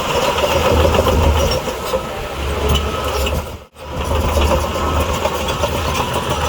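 Heavy diesel earthmoving machinery running steadily with a low engine rumble. The sound cuts out for an instant a little past halfway, then carries on.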